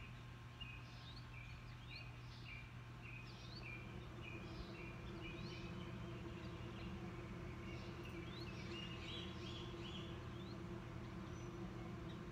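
Birds chirping: short repeated notes, some rising, over a steady low hum of outdoor background noise.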